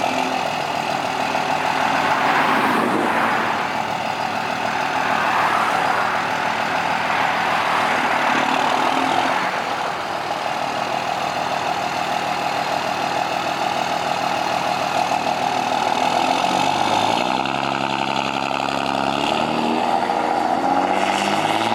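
Car engines running as cars drive slowly past, with one engine revving up in rising steps near the end.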